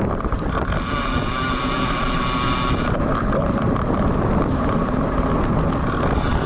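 Wind buffeting the action camera's built-in microphone on a moving road bike in typhoon rain and strong wind. A steady, higher whine sits on top of it from about one to three seconds in.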